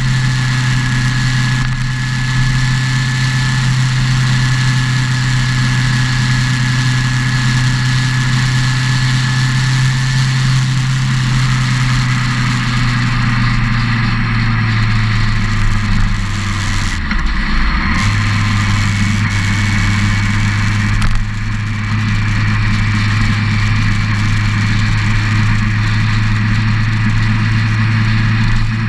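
Motorcycle engine running at a steady cruise, with wind and road noise. About two-thirds of the way through, the engine note dips for a second, as on a gear change or easing off, then carries on slightly lower.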